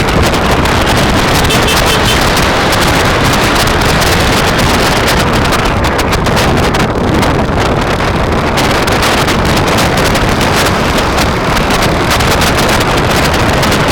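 Loud, steady wind rushing over the microphone of a moving rider.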